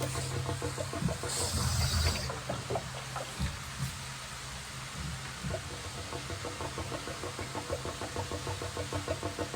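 A motor runs steadily with a fast, even knocking rhythm, and a hiss of air lasting about a second comes about a second in.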